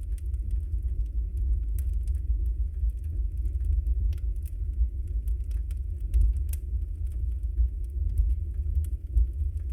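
Wood fire burning in a fireplace: a steady low rumble of the flames with scattered, irregular sharp crackles and pops from the burning logs, one of them louder about six and a half seconds in.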